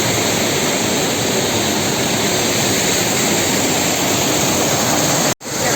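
Waterfall: a steady, loud rush of falling water. It cuts out for an instant near the end.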